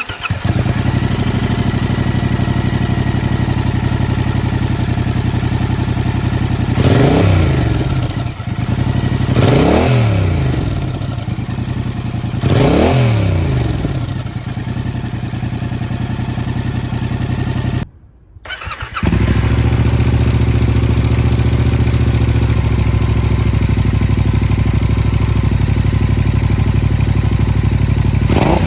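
2022 Yamaha XSR700's 689 cc parallel-twin engine breathing through an Arrow aftermarket muffler, idling and blipped three times, each rev rising and falling quickly. About two-thirds through, the sound drops out for about a second, then the steady idle resumes.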